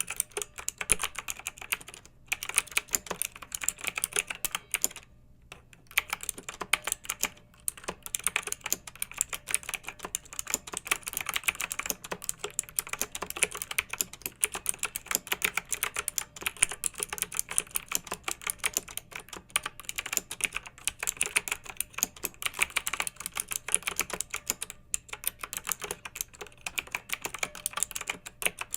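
Clicky mechanical keyboard typing: fast, continuous keystrokes with brief pauses about 2, 5 and 7.5 seconds in.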